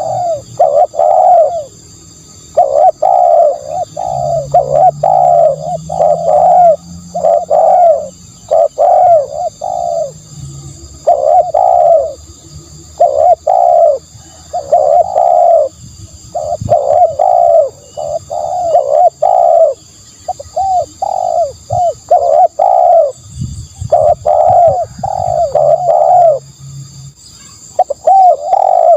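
Spotted dove cooing over and over: runs of two to five short, low coos, each run followed by a brief pause.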